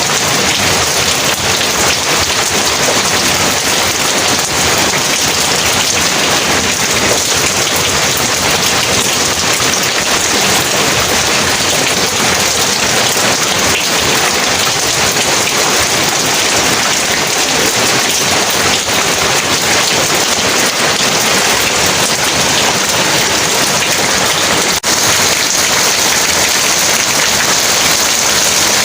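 Heavy rain falling steadily: a dense, even downpour hiss with no distinct thunderclap.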